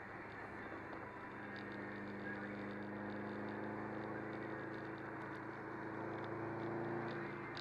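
Subaru WRX's turbocharged flat-four engine running at a steady cruise, with tyre and road noise, heard from inside the cabin. A faint, irregular light ticking runs over it.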